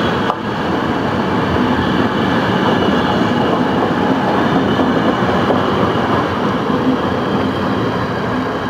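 Passenger train coaches rolling past close by at speed: a loud, steady rumble and rush of steel wheels on the rails, briefly dipping just after the start and easing a little near the end.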